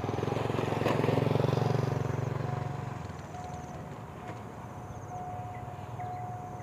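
Diesel-electric locomotive CSR-5116 running past at close range with the low drone of its diesel engine, loudest about one to two seconds in and falling away after about three seconds as it goes by. A steady high warning tone from the level crossing comes and goes from about halfway through.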